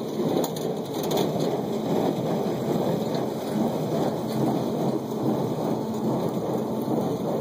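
John Deere 5085E tractor and 328 small square baler running while baling hay, heard as a steady, rough rumble.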